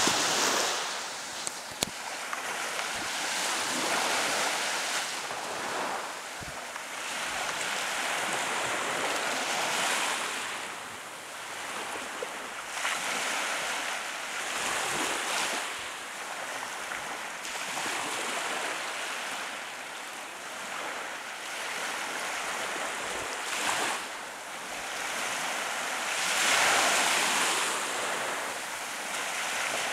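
Gulf of Mexico surf washing onto a sandy beach, waves breaking and swelling every few seconds with the loudest wave near the end, with some wind on the microphone.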